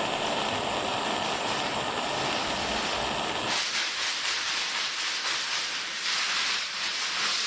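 Steady rushing hiss with no distinct events. About three and a half seconds in it turns thinner and brighter, losing its low rumble.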